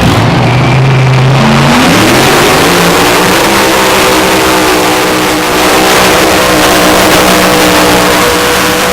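Modified Mini Unlimited pulling tractor's engine running very loud at full throttle. Its pitch rises over the first couple of seconds, then holds high and steady.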